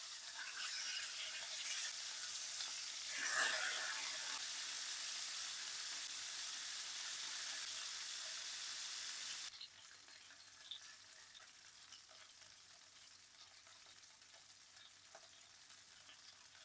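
Chicken frying in a pan, a dense sizzle with crackles and a brief louder flare about three seconds in. About halfway through it drops suddenly to a much quieter, sparser crackle.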